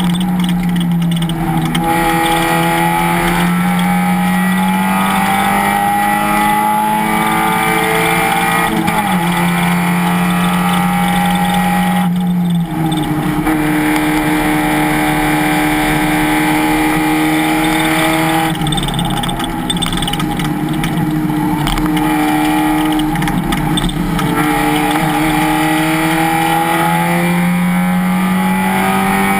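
Race car engine under hard running at speed, its pitch climbing steadily through each gear and then jumping at gear changes and lifts, with a short break about twelve seconds in.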